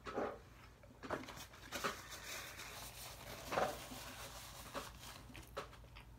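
A person chewing a mouthful of burger: scattered soft smacks and rustles, about one a second, over a low steady hum.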